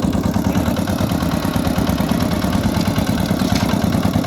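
Micro tractor engine running steadily as it pulls up a slope.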